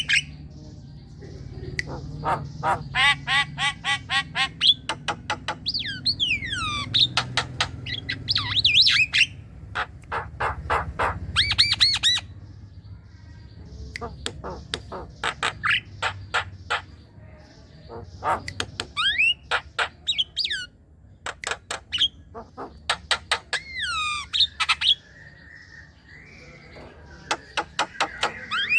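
Javan myna (jalak kebo) singing: bursts of rapid clicking and chattering notes mixed with harsh squawks and sliding whistles, broken by short pauses.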